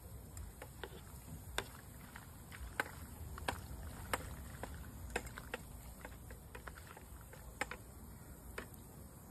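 Wood campfire crackling: irregular sharp pops and snaps, roughly one or two a second, over a low steady rumble.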